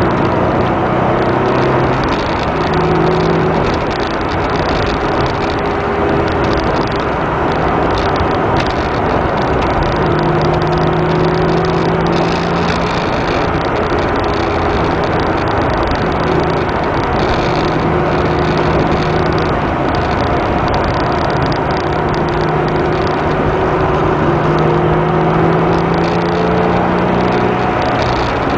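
Porsche 996's flat-six engine running under way, heard from inside the cabin over steady road and tyre noise, its engine note coming and going several times.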